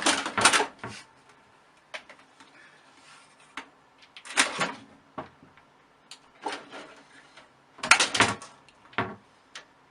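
Irregular knocks and short rattles of household objects being handled or bumped in a small room, coming in a few clusters several seconds apart.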